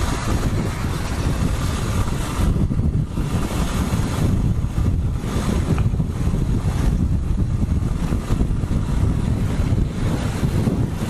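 Wind rushing over the microphone of a rider on a moving motorcycle: a loud, uneven low rumble with little else heard through it.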